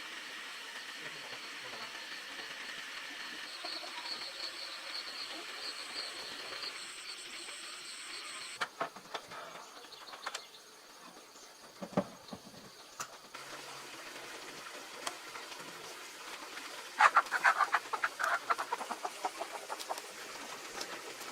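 Farmyard ambience with chickens: a steady background with a faint high whine early on, a few scattered knocks, then a loud burst of rapid, irregular clucking a few seconds from the end.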